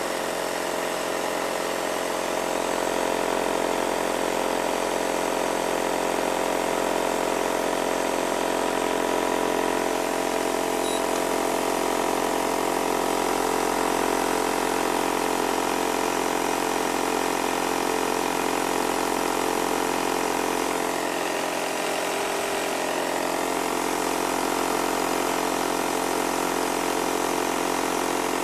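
Electric fan heater's blower running steadily: a constant humming whir of the fan motor over the rush of air.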